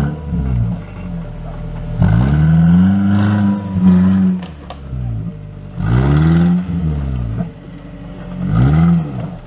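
Off-road 4x4 engine revving in repeated bursts, the pitch sweeping up and falling back each time, with the longest and loudest burst about two seconds in.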